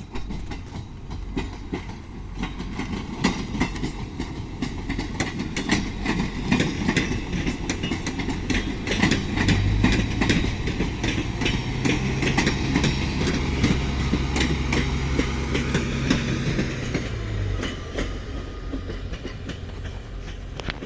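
Passenger train rolling past, its wheels clattering in a dense run of clicks over rail joints and switch points as it crosses to another track, loudest midway, with a low steady hum from the train for several seconds in the middle.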